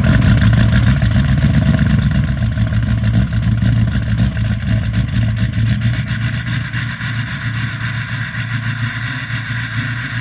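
Ford 6.0 Powerstroke V8 turbo diesel in a 1979 F-250 running hard and steady as the truck is driven in snow, easing slightly toward the end.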